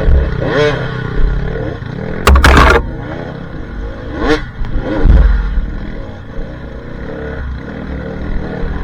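Dirt bike engine revving up and down, its pitch rising and falling with the throttle. A loud clattering burst comes about two and a half seconds in.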